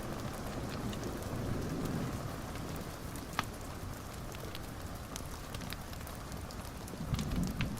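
Wood fire in a fireplace crackling steadily, with scattered small pops and one sharper pop about three seconds in.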